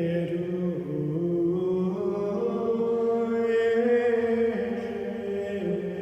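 Background music of a slow vocal chant, voices holding long notes that change pitch every second or so.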